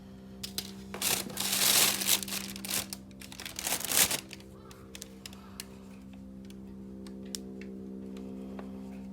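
Crinkling, rustling handling noise in two bursts, the louder near the start and a shorter one a few seconds in, with scattered small clicks, over a steady low hum.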